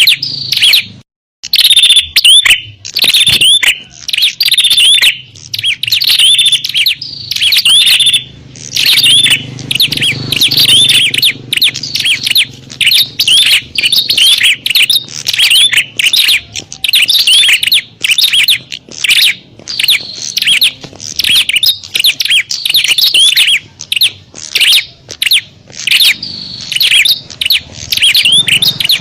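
Prinias (prenjak) calling rapidly and excitedly in quick runs of high, sharp chirps with only brief pauses: the fighting calls used as a lure to draw in wild prinias.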